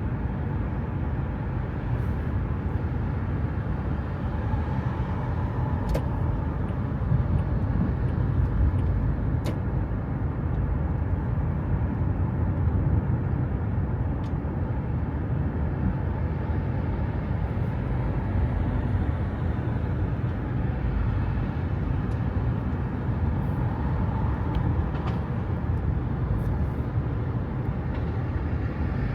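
Steady low rumble of road vehicle noise, as of a car moving or nearby traffic, with a few faint clicks.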